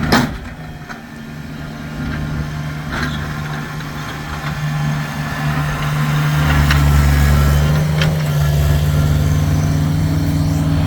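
Kubota tractor's diesel engine running steadily, with a sharp knock right at the start and a few fainter clicks. From about six seconds in the engine note deepens and grows louder, as under heavier load.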